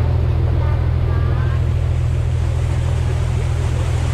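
A boat's engine running steadily under way: a loud, even low drone with a steady hiss above it.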